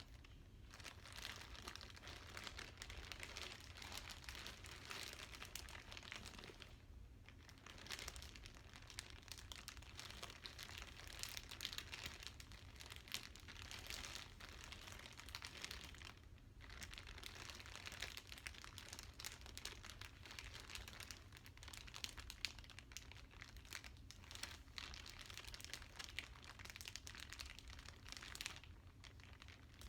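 Plastic packaging crinkling as it is handled, in long stretches broken by brief pauses about 7 and 16 seconds in.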